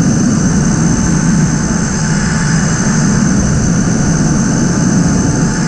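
Tuttio electric dirt bike ridden at about 40 mph: a steady rush of wind and road noise, with a thin, steady high whine over it.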